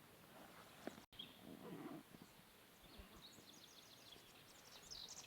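Near silence: faint outdoor ambience, with faint rapid high bird chirps in the second half.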